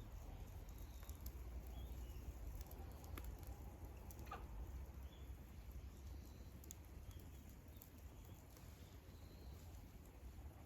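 Wood campfire crackling softly: scattered small pops and ticks from the burning wood, with a few faint short squeaks.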